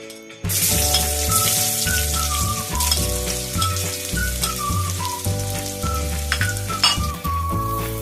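Food frying in a hot pan, a steady sizzle that starts suddenly about half a second in, over background music.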